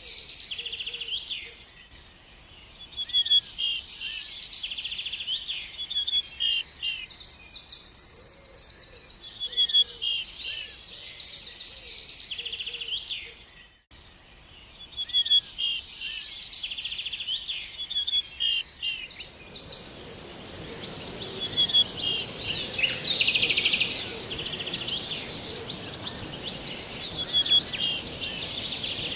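A songbird singing: repeated short chirps and fast, even trills, with a brief drop out about halfway through. From about two-thirds of the way in, a steady high hiss and low background noise sit under the song.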